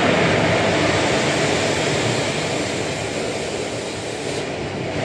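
Indian Railways electric locomotive passing close by at speed: a steady rush of wheels on rail and running gear that slowly fades as it goes by.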